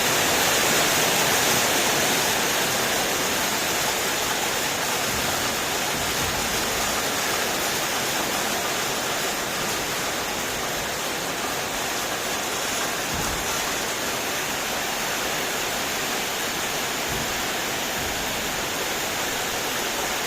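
Rain pouring down steadily, a dense even hiss that runs unbroken.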